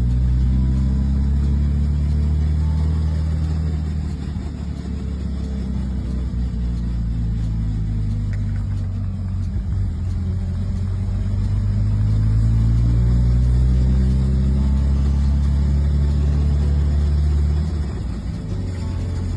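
A 1940 Plymouth Belvedere's flathead six engine running and being revved. Its pitch eases down about four seconds in, climbs again and holds high for several seconds, then drops back suddenly near the end.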